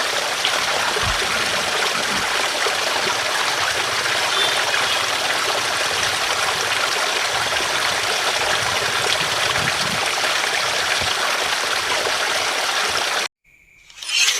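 Steady rush of flowing water, even and unbroken, which cuts off abruptly about a second before the end.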